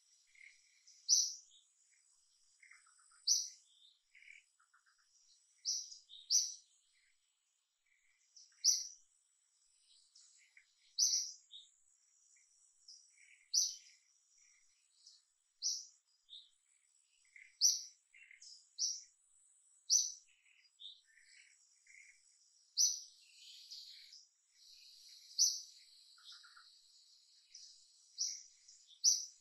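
Small birds chirping: short, high chirps repeating every second or two, with fainter, lower calls in between.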